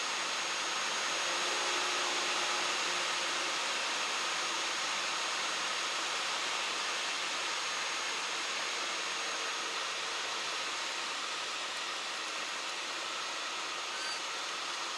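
Steady, even hiss of cockpit noise in a Cessna 172 Skyhawk on short final for landing, with almost no low engine drone.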